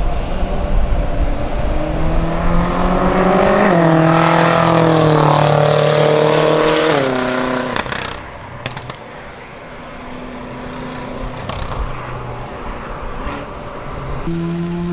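BMW M5 (F10) twin-turbo V8 accelerating hard past on a racetrack: the engine note climbs, steps down at an upshift about four seconds in and climbs again, then drops in pitch and fades as the car moves away, with a few sharp cracks. Just before the end another car's engine note cuts in abruptly.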